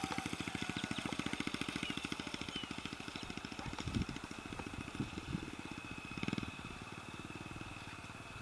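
Honda XR 250 Tornado's single-cylinder four-stroke engine running at low revs, an even, fast train of low exhaust pulses that slowly fades.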